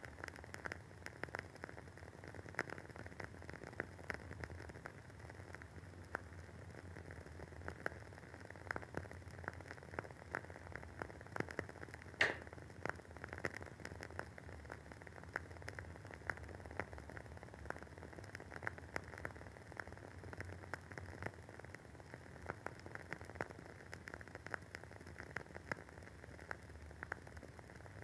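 Wooden wick of a WoodWick candle crackling as it burns: a dense run of small irregular pops over a faint hiss, with one louder pop about twelve seconds in.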